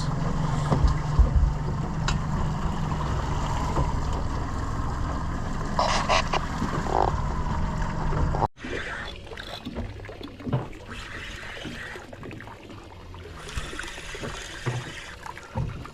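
An outboard-powered boat running on the water: a steady low engine drone with a rush of wind and water. It cuts off abruptly about halfway through, leaving a quieter stretch of water sounds and scattered small knocks.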